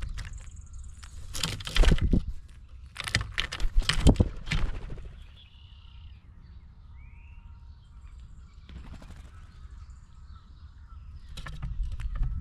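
Clusters of sharp clicks, knocks and scrapes from animals moving about and handling peanuts on a feeding table, over a low rumble, with a short bird note about seven seconds in.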